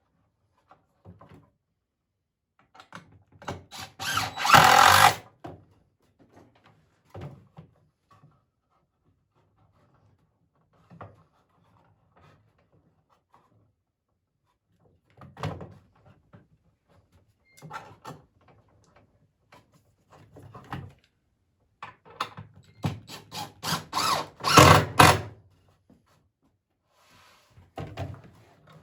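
Power drill driving screws into poplar boards in two loud bursts, one about four seconds in and a longer one a little before the end, with scattered knocks and clatter of handling the boards between.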